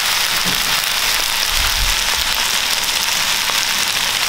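Fried rice sizzling in a frying pan over a lit burner: a steady, even hiss.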